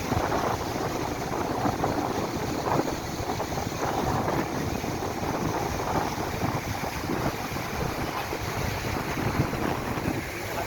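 Floodwater from a river in spate rushing past as a steady, churning water noise, with wind buffeting the microphone.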